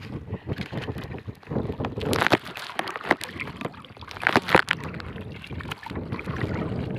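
Small boat on choppy water in strong wind: irregular slaps, knocks and splashes of water against the hull, with wind on the microphone.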